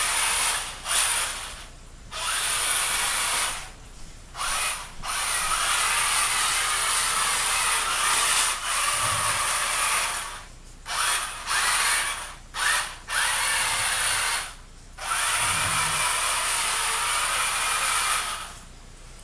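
Electric motor and gear drive of a Kyosho Blizzard radio-controlled tracked vehicle whining in repeated on-off bursts as the throttle is blipped and held, some bursts under a second, others several seconds long; it stops shortly before the end.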